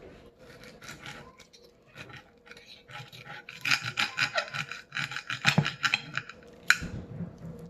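Steak knife sawing through a grilled steak on a plate, a run of quick back-and-forth rasping strokes that grow loudest in the middle.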